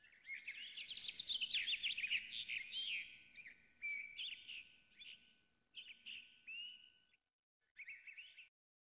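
Songbirds chirping and trilling in quick overlapping calls, with a faint steady high tone underneath. The calls thin out after about four seconds and stop abruptly near the end.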